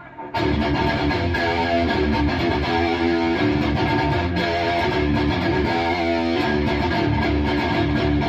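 High-gain distorted electric guitar played through a Bogner Uberschall preamp with its sag control turned fully up and no effects, a continuous riff that starts about half a second in.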